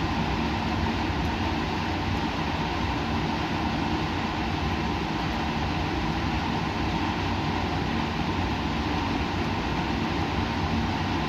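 Steady laboratory background noise: an even rushing sound with a low machine hum under it, unchanging throughout.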